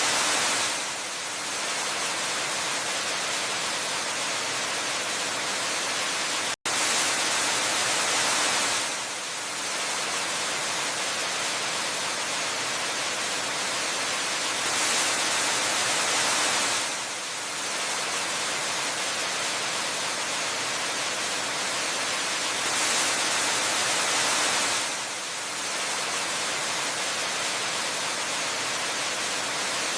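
Waterfall rushing as a steady, hissy wash of falling water that swells and eases about every eight seconds. About six and a half seconds in, the sound drops out for a split second.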